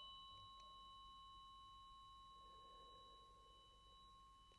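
Tuning fork ringing faintly after being struck, a steady high tone with a few higher overtones fading slowly.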